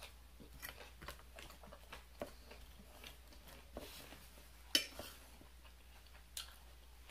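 Close-up chewing of crisp romaine salad, with short crunches and wet mouth clicks, while a fork scrapes and taps on a plate. One sharper, louder click comes a little past the middle.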